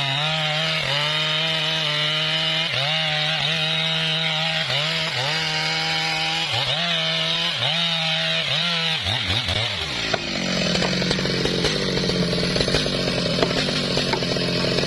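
Gas chainsaw cutting through a large trunk. The engine runs at a steady high pitch with repeated brief dips in speed as the chain bites into the wood, and winds down about nine seconds in. From about ten seconds another chainsaw is heard running under load.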